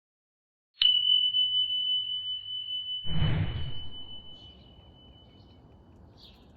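A single high bell-like ding that rings on and slowly fades, with a dull thump about two seconds after it, then a few faint short chirps near the end.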